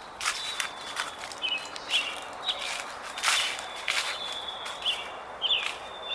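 Footsteps crunching through dry fallen leaves at a slow walking pace, with short, high, thin bird calls and a faint high steady whistle over them.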